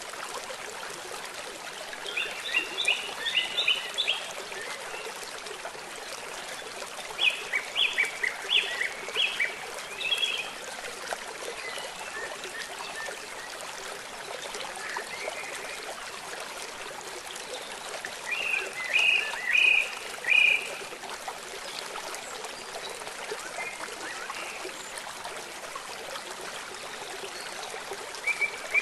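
Steady rush of flowing stream water, with three bursts of rapid, repeated high chirping calls from small animals over it: about two seconds in, around eight seconds, and about nineteen seconds in.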